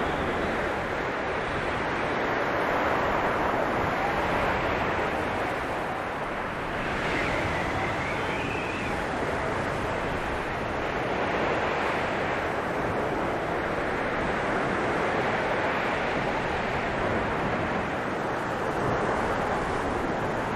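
Blizzard wind blowing steadily, a dense rushing noise that swells and eases gently every few seconds.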